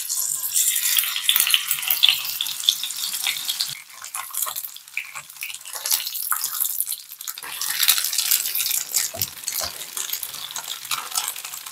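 Slabs of tofu frying in hot oil in a pan, a steady sizzle full of fine crackles.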